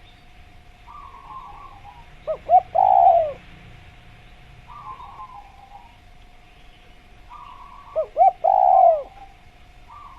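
Spotted dove (tekukur) cooing twice, about five seconds apart. Each call is two short coos followed by a longer, falling coo. Softer twittering recurs every few seconds over a faint steady tone.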